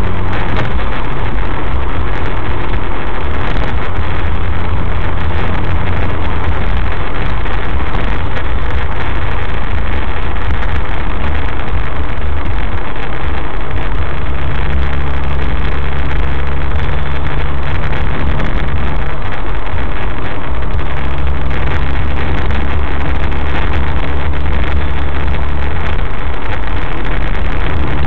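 Suzuki SX4's four-cylinder engine breathing through a K&N Apollo cold air intake, heard from inside the cabin while cruising: a loud, steady low drone over road noise. The engine note shifts a couple of times.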